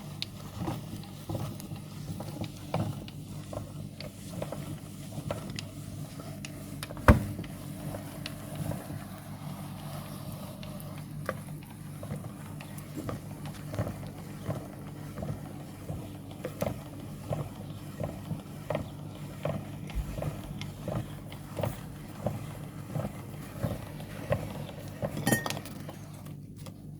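Meat grinder grinding chocolate biscuits: a steady low hum under crunching, with a regular click a little more than once a second and one loud knock about a quarter of the way through.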